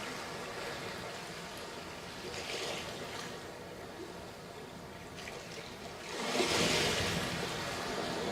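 Sea waves breaking on a sandy beach: a small wave washes in about two and a half seconds in, then a larger one breaks about six seconds in, with the hiss of receding water between.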